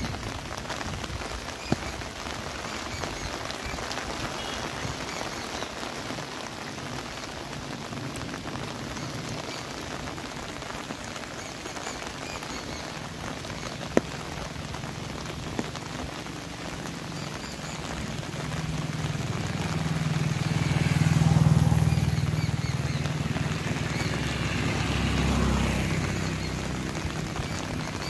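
Steady monsoon rain falling on foliage and grass, with a few sharp drip clicks. About two-thirds of the way in, a low rolling rumble of thunder swells up, peaks twice and fades away.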